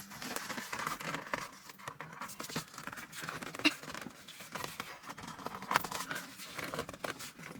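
Rustling, scraping and small clicks of hands working a fabric or plastic car accessory into place, with a couple of sharper ticks partway through.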